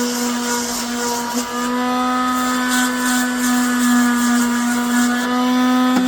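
Small electric motor running at a steady high speed, a constant whine with a brief dip in pitch about a second and a half in, with an intermittent gritty hiss above it.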